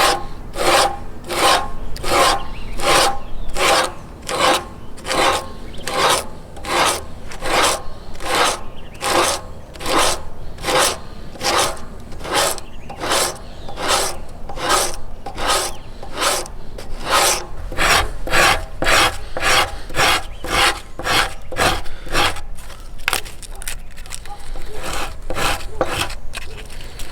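Hand rasp working yew wood of a selfbow in steady back-and-forth strokes, about two a second, going a little fainter and sparser near the end.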